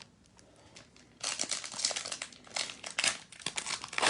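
Crinkling and rustling of a foil trading-card pack wrapper being handled and torn open. It starts suddenly about a second in after a few faint taps.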